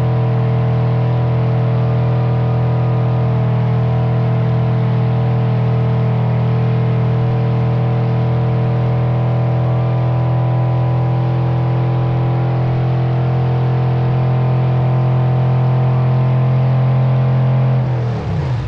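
Car engine held at steady high revs for a long burnout, its pitch falling away quickly near the end as it is let off.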